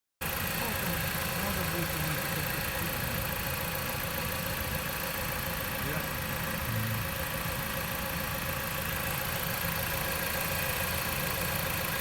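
Jeep Patriot 2.4 four-cylinder engine idling steadily just after a rebuild with a new cylinder head and freshly adjusted valve clearances.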